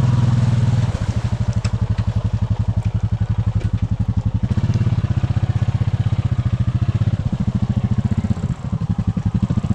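Honda Rancher ATV's single-cylinder engine running under load in a flooded creek, with fast even firing pulses. The throttle eases off about a second in, opens up again around four and a half seconds, and eases once more near the end.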